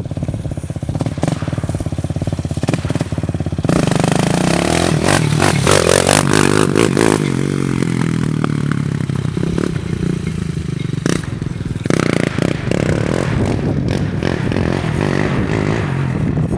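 Four-wheeler (ATV) engine running, getting louder about four seconds in and revving up and down, with scattered knocks and scraping over it.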